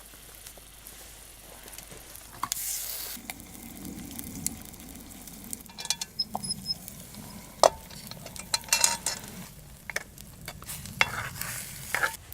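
Food sizzling in a pan, with sharp clicks and scrapes from a utensil stirring or turning it.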